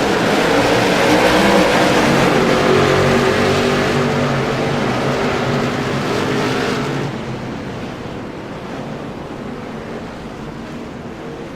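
A pack of late model stock cars runs at speed, with several engine notes at once over tyre and wind noise. The sound is loud for about seven seconds, then drops and dulls as the cars move away.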